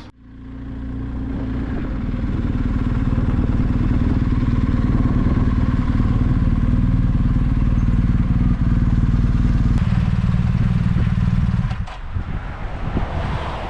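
BMW R 1250 GS boxer-twin motorcycle engine running steadily with a low, even drone. It fades in at the start and drops away suddenly about two seconds before the end, leaving quieter rustling and wind noise.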